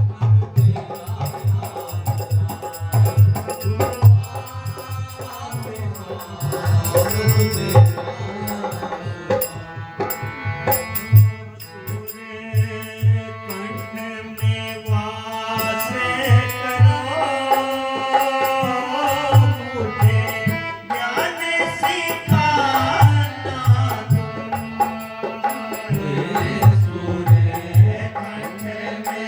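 Devotional shabad music: a tabla-type hand drum keeps a quick, steady beat under a shifting melody line.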